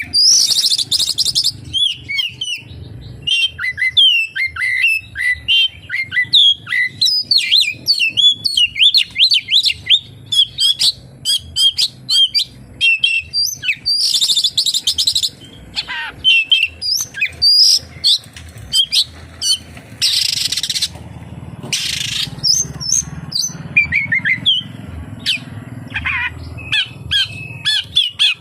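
Oriental magpie-robin singing a fast, continuous song of varied chirps, trills and whistles, broken a few times by short harsh rasping notes. The song carries mimicked phrases of the sooty-headed bulbul (kapas tembak).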